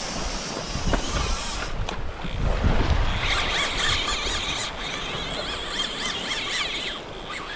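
Fishing reel's drag screaming as a fish strips line off on taking the live bait, starting about three seconds in and easing off near the end.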